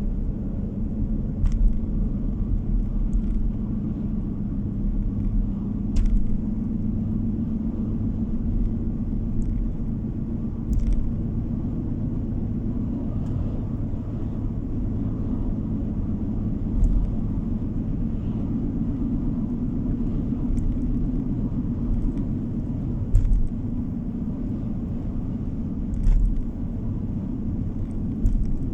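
Car driving along a road, heard from inside the cabin: a steady low rumble of engine and tyres, broken by a few short thumps spaced several seconds apart.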